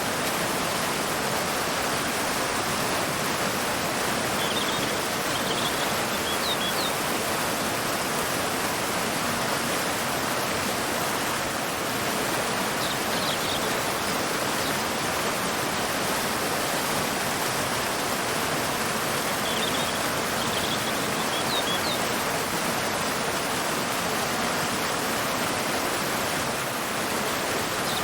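Waterfall pouring into a river: a steady, even rush of water. A few faint, short, high bird chirps come in small groups every several seconds.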